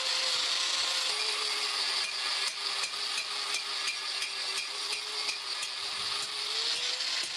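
Electric grinder working on steel, with a steady hiss over a motor hum. The hum drops in pitch about a second in as the disc bears on the metal under load, then rises back near the end as the load comes off. Rapid regular ticking is heard in the middle stretch.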